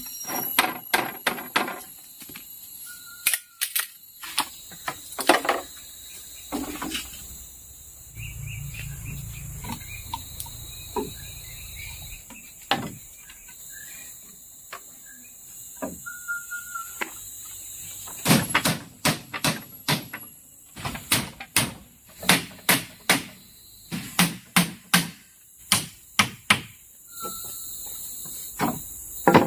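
Repeated sharp knocks in irregular runs, the longest a fast series of about two to three strikes a second, with insects chirring steadily underneath.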